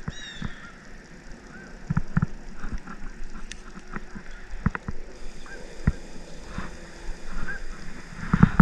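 Irregular knocks and clicks on a kayak while a just-landed largemouth bass is handled, with a few short chirping calls.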